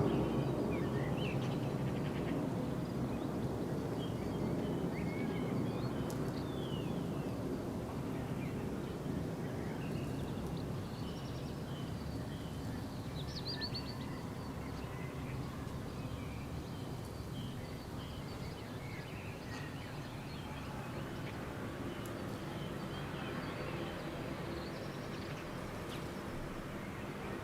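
Outdoor ambience: a steady low rumble of background noise with many faint, scattered bird chirps and short calls over it, including a quick rattling series about halfway through.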